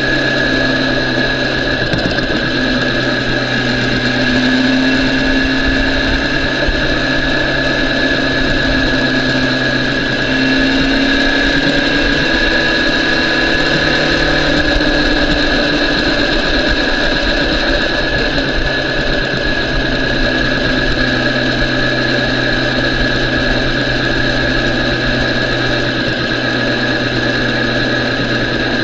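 BMW S1000RR inline-four engine running at low, fairly steady revs, with only slight rises and falls in pitch.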